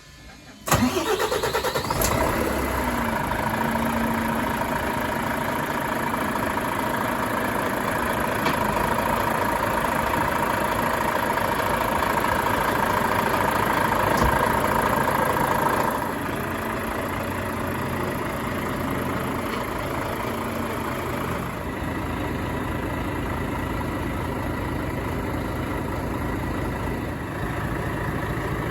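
Volvo FH 540's 13-litre inline-six diesel engine starting less than a second in, then idling steadily. A steady whine over the idle stops about halfway through and the engine runs a little quieter from then on.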